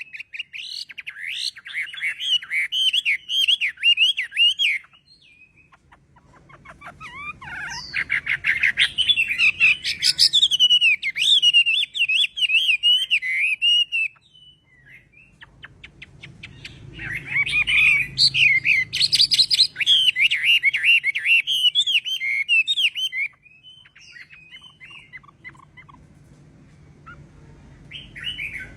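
A Chinese hwamei singing: three long bouts of rapid, varied warbling with short pauses between them.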